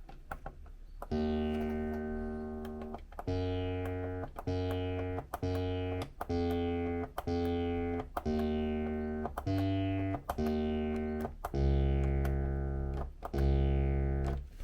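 Behringer TD-3 acid bass synthesizer playing a slow run of separate sustained notes. Each note opens bright and its filter closes down over the note, and the last two notes, near the end, are lower and louder.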